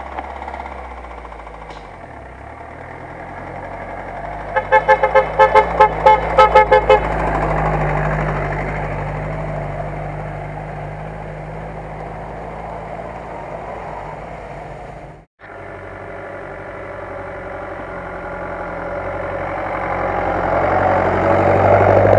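Toyota Land Cruiser's engine running at low revs as it crawls up a forest track toward the camera. Between about five and seven seconds in, a car horn gives about ten quick beeps, roughly four a second. After a brief break in the sound, another 4x4's engine grows louder as it passes close by near the end.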